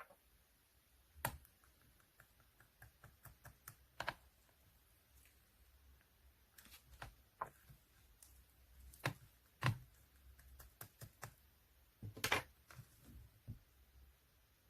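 White slime being squeezed and poked, giving off irregular sharp clicks and pops, with louder pops about a second in, around nine to ten seconds, and near twelve seconds.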